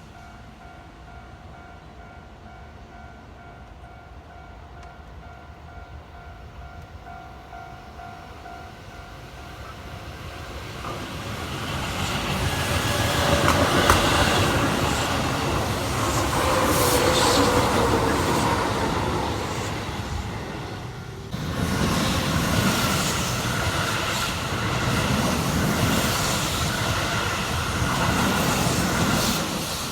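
Keihan electric train approaching and running past, growing from faint to loud over several seconds, with wheel-on-rail noise. Near the end of the dip, a second loud stretch of train noise starts suddenly and continues until just before the end.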